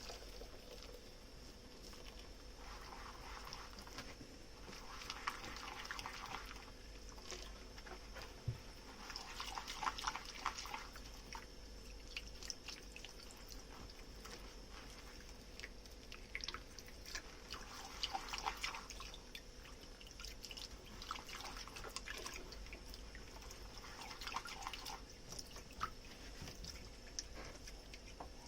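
Dishes being hand-washed at a kitchen sink: several quiet spells of water and foamy scrubbing with small clicks and drips, over a faint steady hum.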